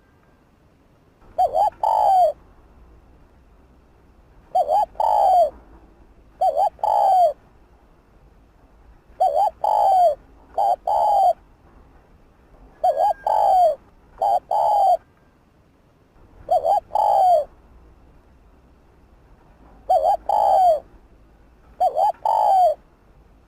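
Spotted dove cooing: short groups of two or three low coos repeated about every two to three seconds.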